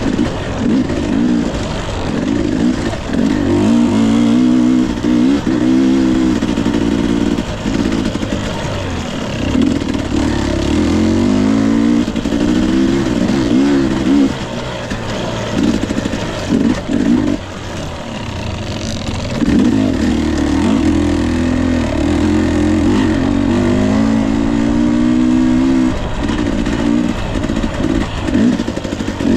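Husqvarna TE 250i two-stroke dirt bike engine being ridden hard: it revs up and down over and over with short drops off the throttle, and settles into a quieter, steadier stretch about two-thirds of the way through.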